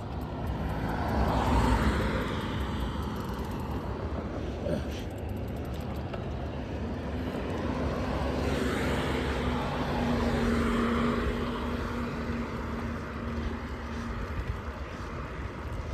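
Vehicle engines running on the road, a steady rumble that swells about two seconds in and again in the second half as traffic goes by.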